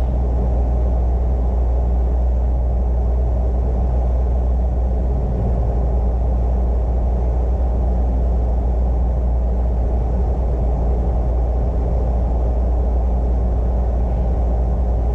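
Piper Cherokee's piston engine and propeller droning steadily, heard from inside the cabin on final approach.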